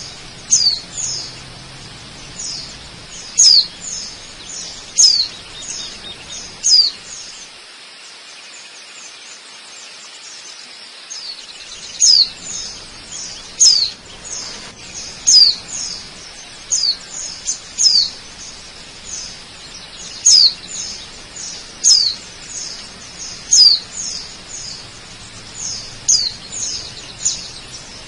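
A bird calling repeatedly: loud, quick downward-sweeping chirps about every second and a half, with softer chirps between them and a lull of a few seconds in the middle. A faint steady rush of falling water runs underneath.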